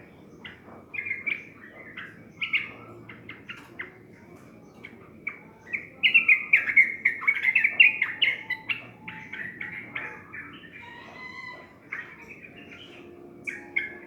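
Yellow-vented bulbul (trucukan) chirping, breaking into a loud run of song about six seconds in that lasts a couple of seconds, then scattered short calls.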